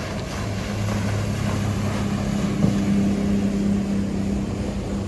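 Motorboat engine running past with a steady low drone over wind and water hiss, the hum growing fuller about halfway through.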